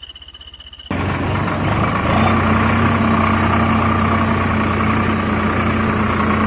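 Engine idling steadily, starting abruptly about a second in.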